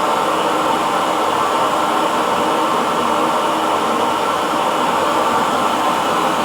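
Hair dryer blowing steadily, a constant rushing hum of fan and airflow with no change in pitch or level.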